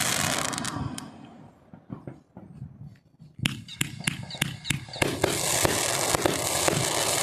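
Fireworks going off: a dense crackling dies away, then a quick string of sharp bangs, then the thick crackling starts up again.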